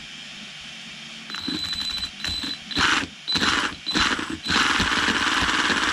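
Electric RC semi truck's motor and belt drive whirring in several short throttle blips, with a high whine in some of them, then running steadily from about four and a half seconds in. This is the first test of a front drive belt repaired by stitching.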